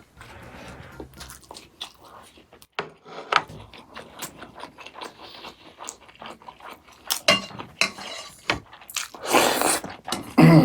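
Close-up eating sounds: chewing and crunching mouthfuls of food, with many small clicks and a louder stretch near the end.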